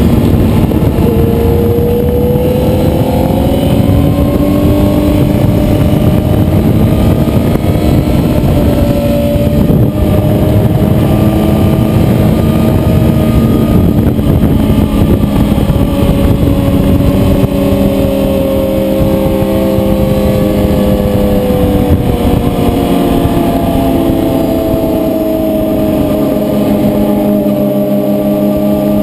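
Motorcycle engine running hard on a race track, its pitch rising and falling with throttle and gear changes. About two-thirds of the way through it gets slightly quieter and holds a steadier note.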